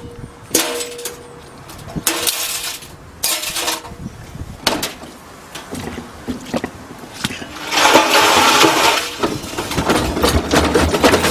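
A washing machine being wrecked: a string of separate crashing, breaking impacts, then a longer loud clatter starting about eight seconds in.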